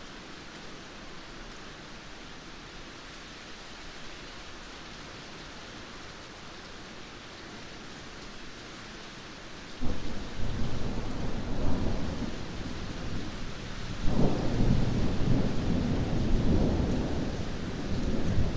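Steady rain hiss, then thunder: about ten seconds in a loud low rumble breaks out suddenly, and a second clap follows about four seconds later and rumbles on to the end.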